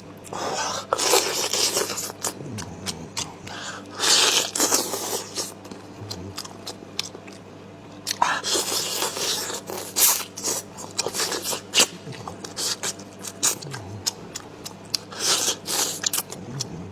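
Close-up biting, crunching and chewing with many sharp irregular clicks: someone eating chicken neck and crunching through the small bones.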